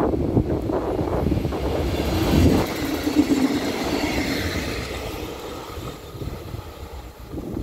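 A short regional multiple-unit passenger train passes close by over a level crossing. Its rumble of wheels on rail is loudest about two and a half seconds in, then fades as it moves away after about five seconds.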